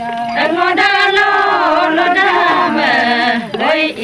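A group of women singing a traditional Adi dance chant together in chorus.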